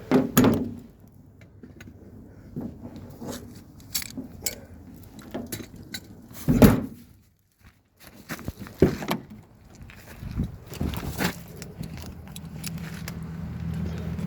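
Keys jangling with scattered knocks and clunks, then a low steady hum that comes up and grows near the end.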